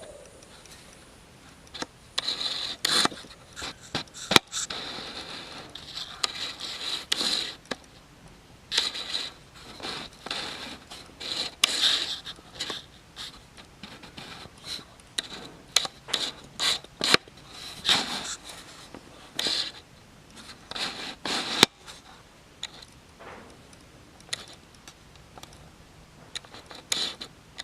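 Irregular scraping and rustling handling noises, with a couple of sharp clicks.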